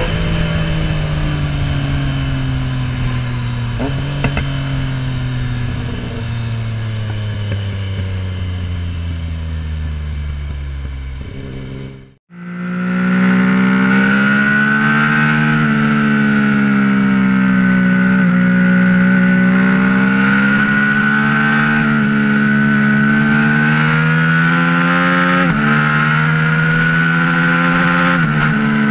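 Motorcycle engine running under way. Its pitch slowly sinks for about the first twelve seconds, then the sound cuts out for a moment. It returns steady, wavering gently up and down, with two quick jumps in pitch near the end.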